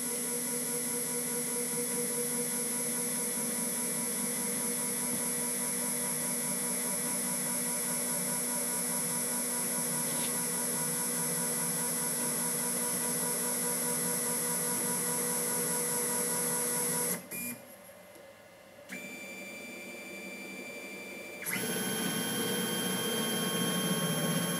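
Holzmann ED 400FD lathe, converted to CNC, running under power with a steady, high-pitched electric motor whine made of several fixed tones. About 17 seconds in it drops away, then it comes back with a different pitch and gets louder about 21 seconds in.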